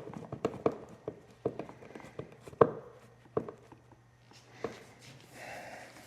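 Clicks and knocks of tools and motorcycle parts being handled during reassembly, irregular, with the sharpest knock about two and a half seconds in and a brief soft hiss around five seconds in.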